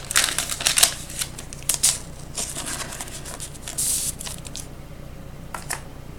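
Football trading cards being handled and slid against each other: quick rustles and clicks for about the first two seconds, another run from about two and a half to four and a half seconds in, and a couple of light clicks near the end.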